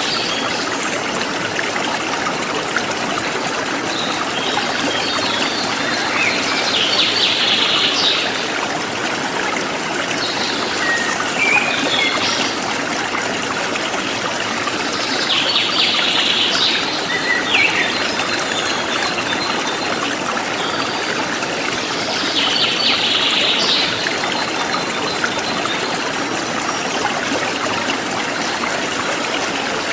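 A forest stream flowing steadily, with birds chirping in short bursts about five times, every several seconds.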